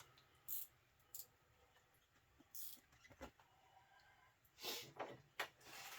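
Near silence, broken by a few faint rustles and light clicks from a rear window panel being handled and worked into its mounting slots.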